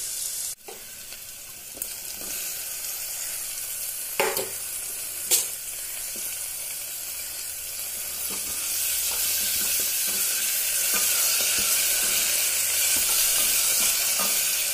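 Onions, green chillies and chopped tomato sizzling in hot oil in a pressure cooker, stirred with a wooden spatula. There are two sharp knocks about four and five seconds in, and the sizzle grows louder from about eight seconds in.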